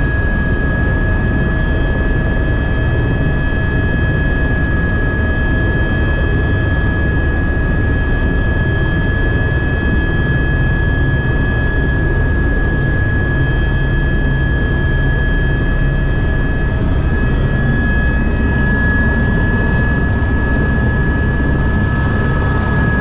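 Aircraft engines heard from inside the passenger cabin: a loud, steady rumble with a steady high-pitched whine over it.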